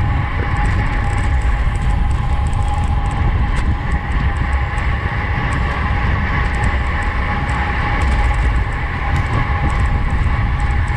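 Wind buffeting the microphone of a camera on a road bike ridden hard at race speed, a heavy steady rumble, with a constant whine from the tyres and drivetrain and light scattered ticks.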